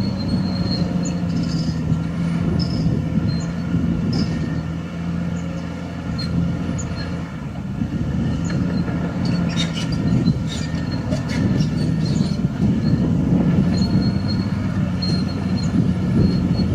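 Caterpillar D6R XL bulldozer's diesel engine running steadily under load, with its steel tracks squealing on and off and a run of metallic clanks about halfway through.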